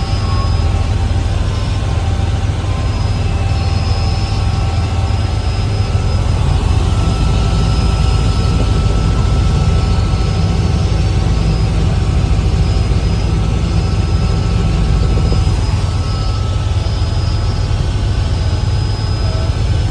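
Helicopter running steadily: a loud, even low rumble from the rotors and engine, with faint steady high-pitched whines above it.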